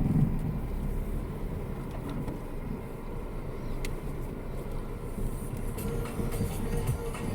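A vehicle driving off and running steadily, heard as a low rumble.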